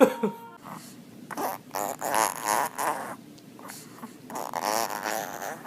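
A dog making rough, fluttering snorting and grumbling noises in two long bursts, the first about a second in and the second near the end.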